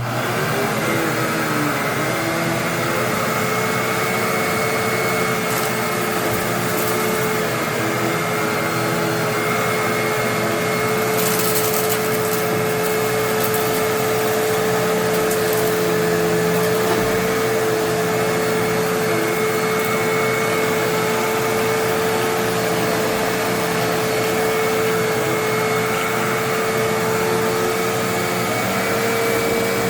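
Hoover WindTunnel Twin Chamber bagless upright vacuum switched on and running steadily, with a steady motor whine, as it vacuums up a test mess.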